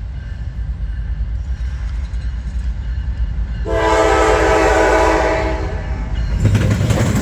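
Freight locomotive air horn sounding one long blast of about two seconds, a chord of several steady tones, over the low rumble of the approaching train. Near the end the rumble and rail clatter grow louder as the train closes in.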